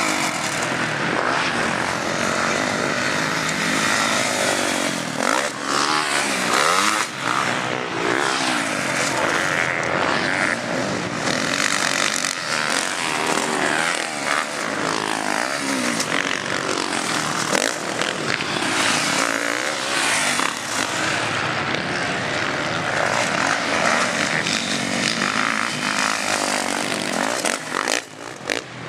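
Several motocross bikes racing, their engines revving up and down through the gears, with many rising and falling pitches overlapping.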